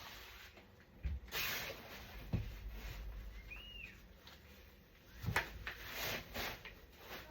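Knocks and rustles of playard parts being handled and fitted together, with a brief squeak near the middle.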